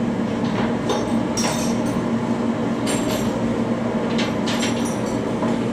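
Steady machinery hum with a constant low tone, broken by several short metallic clinks of tools or parts knocking against metal.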